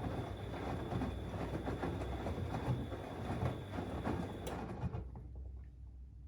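Siemens Extraklasse XLS 140 A front-loading washing machine's drum tumbling a load of cleaning rags, an irregular run of knocks and splashing over a low rumble. The motor's thin whine cuts off with a click about four and a half seconds in, and the tumbling dies away within half a second.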